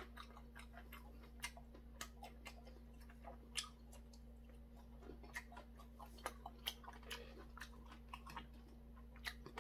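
A person chewing food with faint, irregular mouth clicks and smacks, over a low steady hum.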